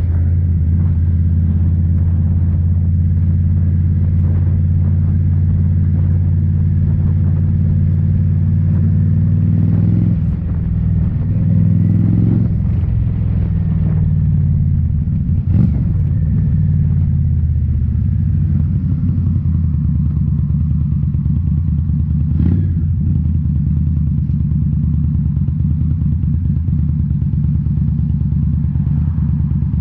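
Indian Scout Bobber's liquid-cooled 1133 cc V-twin running under way through Rinehart slip-on mufflers, a steady deep exhaust note. About ten seconds in it briefly drops and shifts in pitch, as with a throttle change or gear shift. Two sharp knocks come later, one after the middle and one near two thirds through.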